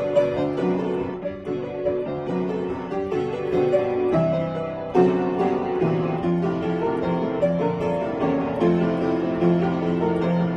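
Solo piano playing a melody over chords, with a strongly struck chord about five seconds in.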